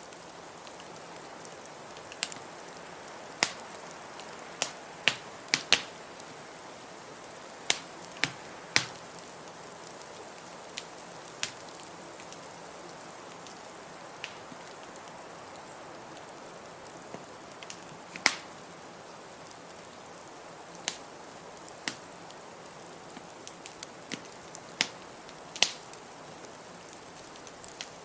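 Wood fire crackling in a fireplace: irregular sharp pops and snaps, one louder crack about two-thirds of the way through, over a steady background hiss.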